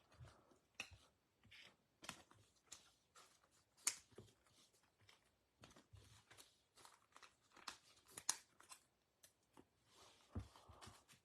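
Faint, irregular crinkling, rustling and light tapping of trading-card packaging and cards being handled, with a slightly louder scrape about ten seconds in.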